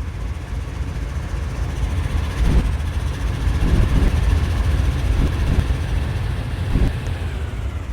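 Freight train rolling: a steady low rumble of wheels on rail, with a few louder thumps spread through it.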